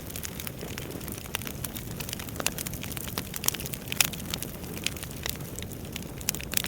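Wood fire burning in a fireplace: a steady low rumble of flames with irregular sharp crackles and pops of burning logs, one louder pop about four seconds in.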